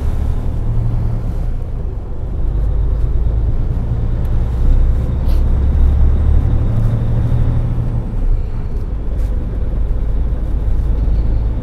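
Semi truck's diesel engine and road noise heard from inside the cab while driving: a steady low rumble that swells a little now and then.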